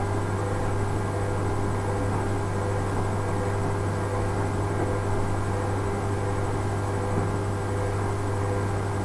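Hoover Ecologic 800 automatic washing machine running on its rinse cycle: a steady low motor hum with an even wash of noise over it, unchanging throughout.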